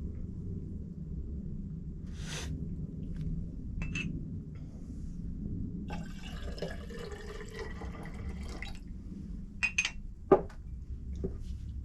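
Water splashing and dripping, with a few sharp knocks, the loudest about ten seconds in, over a steady low rumble.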